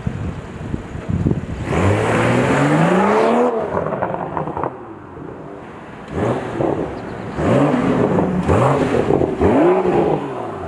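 2021 BMW M340i's turbocharged 3.0-litre inline-six running through the M Performance exhaust, with a few crackles near the start. The engine then climbs steadily through the revs once, followed by three or four shorter revs that rise and fall.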